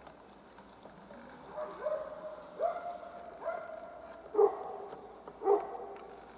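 A dog barking and whining: about five short calls, the first few drawn out into a brief held tone, the last two short barks.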